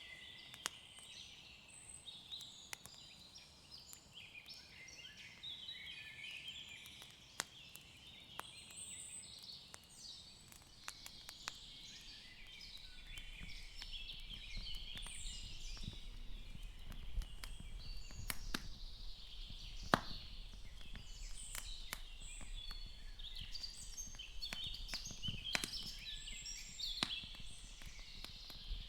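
Ambient woodland soundscape: several birds chirping and singing together without a break, with scattered sharp clicks and pops. A low rumble comes in about halfway through.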